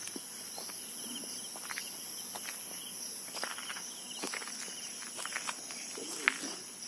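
Steady high-pitched insect drone, with irregular footsteps and small clicks on the ground.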